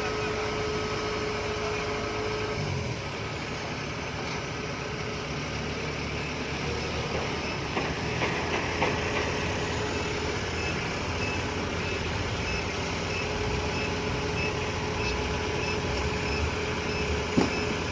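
A heavy vehicle's engine running steadily. In the second half a reversing alarm beeps faintly at an even pace, and a single knock comes near the end.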